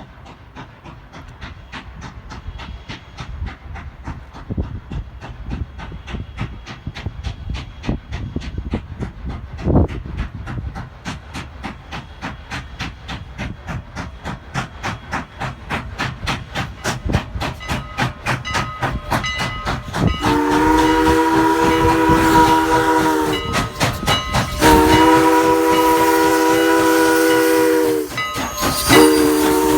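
Steam locomotive No. 89 working, its exhaust chuffing in an even beat that quickens and grows louder as it approaches. From about two-thirds of the way in its steam whistle sounds a chord in two long blasts and a short one, with another beginning at the end: the long-long-short-long pattern of a grade-crossing signal.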